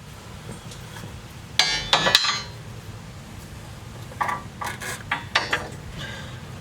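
Steel coil spring and suspension parts clanking as the new spring is set into the Jeep Wrangler JK's suspension: a loud cluster of metal knocks with a short ring about a second and a half in, then a few lighter clinks around four to five and a half seconds.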